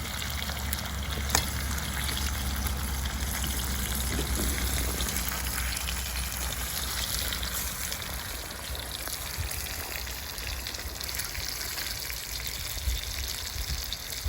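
Food frying in a pan over a fire: a steady sizzling hiss with fine crackles and a few sharper pops.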